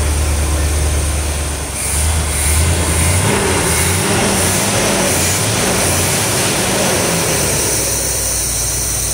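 1973 Corvette Stingray V8 running, with its throttle worked by hand at the carburetor: a steady idle, then about two seconds in the engine speeds up and holds higher revs for several seconds before dropping back to idle near the end. The engine is running again after sitting for 25 years.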